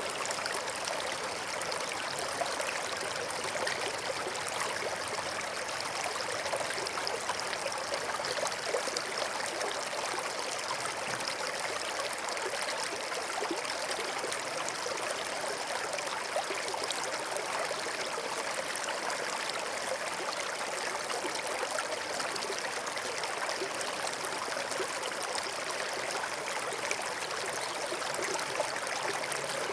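Forest stream flowing and trickling over stones, a steady, even water sound that neither rises nor falls.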